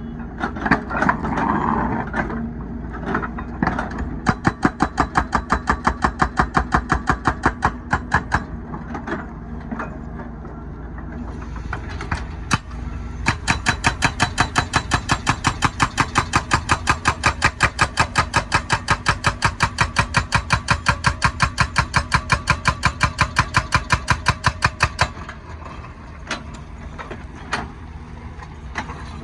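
Hydraulic breaker on a wheeled excavator hammering asphalt in two long runs of rapid, evenly spaced blows, over the excavator's diesel engine running steadily. Between the runs there are scattered knocks.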